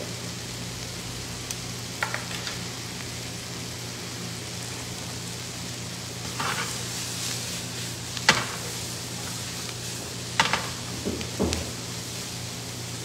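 Onion and bacon sizzling as they fry in a pan while a spatula stirs them, with several sharp clacks and scrapes of the spatula against the pan, the loudest a little past the middle.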